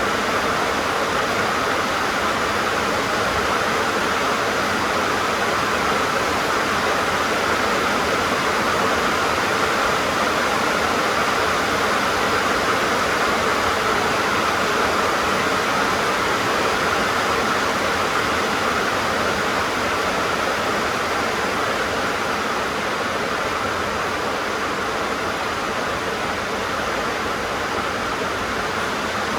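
Heavy rain drumming on a tin (metal sheet) roof, a steady dense patter that eases slightly near the end.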